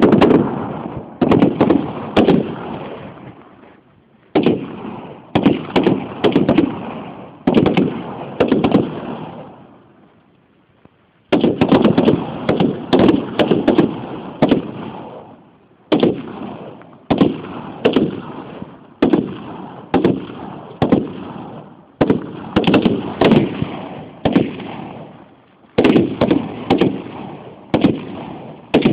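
Heckler & Koch G3 7.62×51mm rifle fire: quick strings of shots, each volley trailing off in a long rolling echo, with one break of about a second and a half about a third of the way in.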